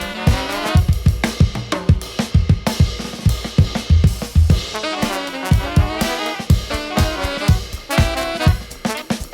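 Jazz octet playing an upbeat swing-funk tune: saxophone and brass horn lines over a driving drum kit and bass.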